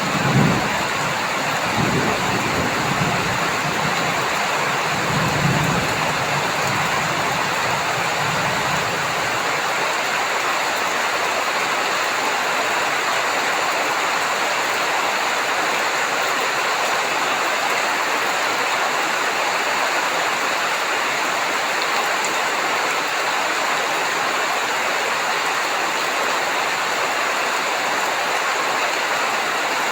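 Heavy rain falling steadily, with a low rumble of thunder that dies away about nine seconds in.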